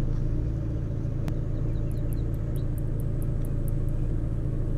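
A vehicle engine idling steadily with a low, even hum. A single faint click comes about a second in, and a run of faint high ticks follows near the middle.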